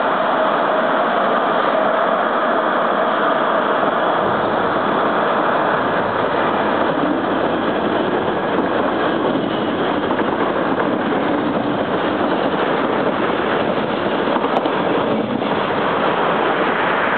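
Øresundstog electric multiple-unit train running past, a steady rumble that holds level throughout, with a faint whine that fades away in the first few seconds.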